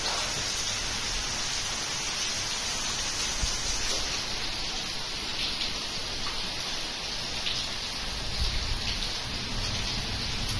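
Heavy rain falling, a steady hiss with scattered drop ticks.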